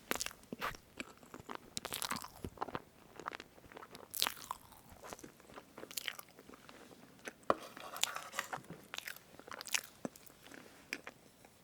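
Close-miked eating of a strawberry whipped-cream cake: a utensil cutting through the cream and sponge, with chewing and wet mouth sounds, a steady run of small crackles and clicks.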